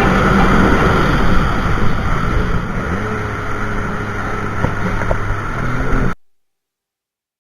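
Jet ski engine running over water and wind noise; about halfway its pitch drops as it throttles back, and the sound cuts off suddenly near the end.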